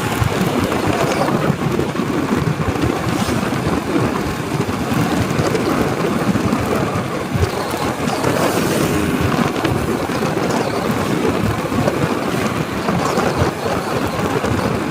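Steady rush of wind buffeting the microphone over the motorcycle's running engine and road noise while riding.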